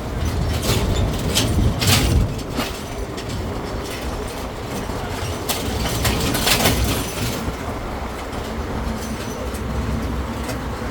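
Riding aboard a tourist road train: steady rumble of its engine and tyres, with the carriages rattling and clattering, several sharp rattles in the first few seconds and again a little past the middle.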